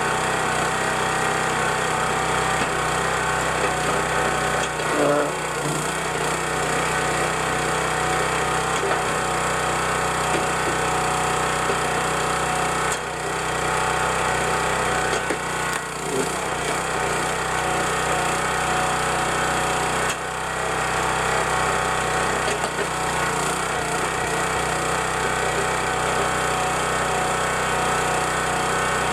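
County Line 25-ton log splitter's gas engine running steadily, with a few brief dips as the splitter works through rounds of wood.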